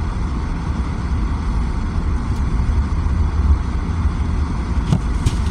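Car driving on the road, heard inside the cabin: a steady low rumble of engine and tyres with road hiss, and a couple of faint clicks near the end.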